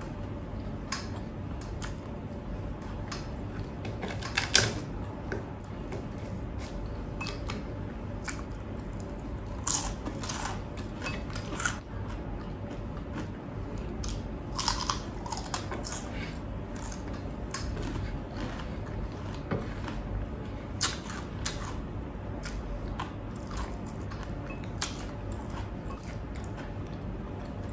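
Close-miked eating: chewing with scattered short clicks and snaps over a faint steady hum.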